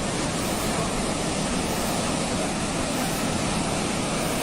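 Rushing water, a steady noise with no breaks or distinct events.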